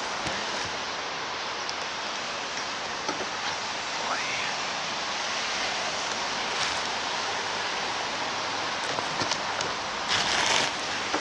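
Steady hiss of rain and wet street noise, with a brief louder rustling burst about ten seconds in.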